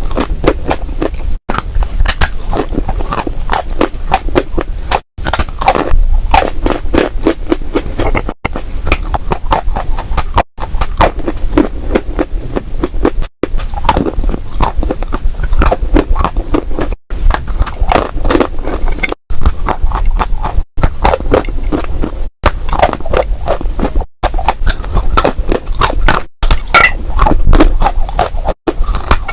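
Close-miked crunching and crackling of dry clay, dense with sharp cracks over a low rumble, in short clips cut together with a brief silent break every couple of seconds.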